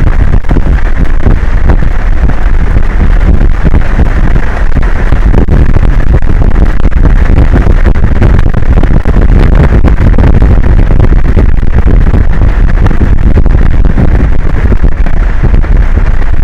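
Wind buffeting an outdoor camera microphone: a loud, steady, low rumbling noise with no breaks.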